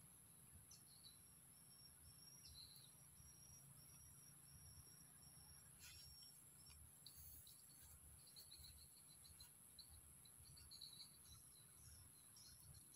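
Faint outdoor ambience of insects: a steady, high-pitched drone throughout, with scattered faint short chirps over it.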